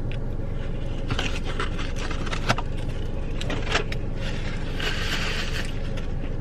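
Paper and cardboard fast-food packaging being handled: rustling and scraping with a couple of sharp clicks, over a steady low hum.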